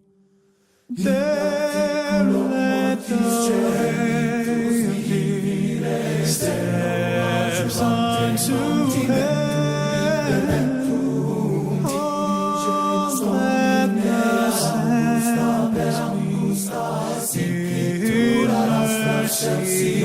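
Choir singing a cappella, several voices in harmony, starting about a second in after a brief silence.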